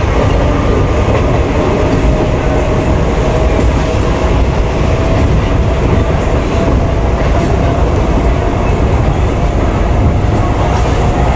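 Mumbai suburban local train running with a steady, loud rumble and wheels clattering on the rails, and a thin whine that climbs slowly in pitch.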